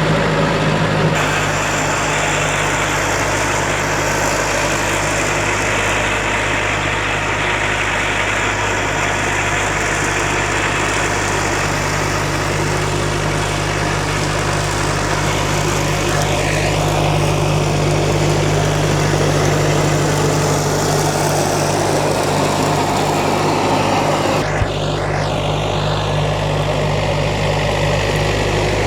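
John Deere 1070 compact tractor's diesel engine running steadily under load while driving a 72-inch finish mower deck.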